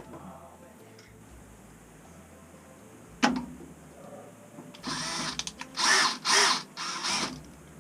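Power drill driving the mounting screws of a boiler circulator pump, run in four short bursts near the end, after a single sharp click about three seconds in.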